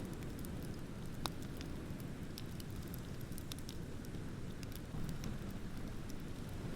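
Wood bonfire crackling with scattered sharp pops, one louder pop about a second in, over a steady low rumble of ocean surf that swells about five seconds in.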